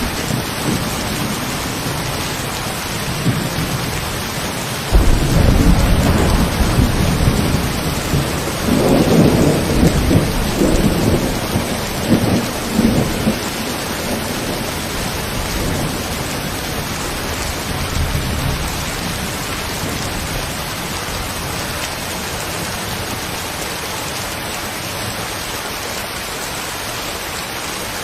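Steady rain falling, with a thunderclap breaking in suddenly about five seconds in and rumbling on for around ten seconds before fading away.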